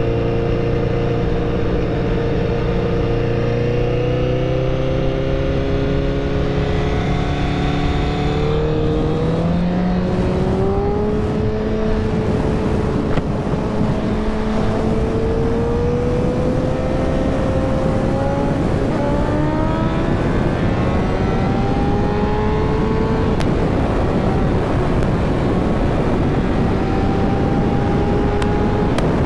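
Honda CBR 1000 motorcycle's inline-four engine pulling under throttle, its note climbing slowly and steadily, with a jump upward about ten seconds in and a rising rush of wind noise behind it.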